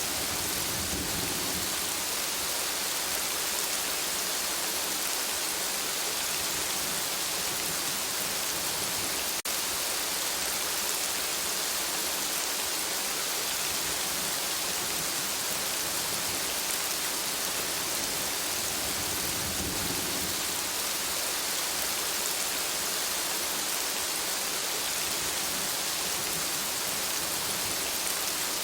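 Steady rain falling, a dense even hiss, with faint low rumbles of thunder about a second in and again about two-thirds of the way through. A single brief click comes about a third of the way in.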